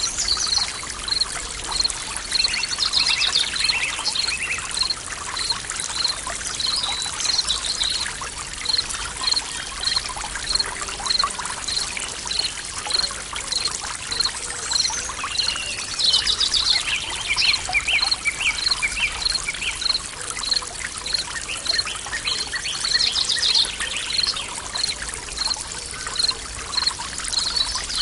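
Forest stream water trickling and splashing steadily. A short high note repeats evenly, a little more than once a second, and birds sing short phrases now and then.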